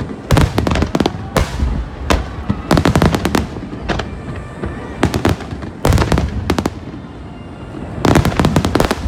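Fireworks finale barrage: aerial shells bursting in rapid volleys, clusters of sharp bangs and cracks coming close together. There is a short lull about seven seconds in, then another dense volley near the end.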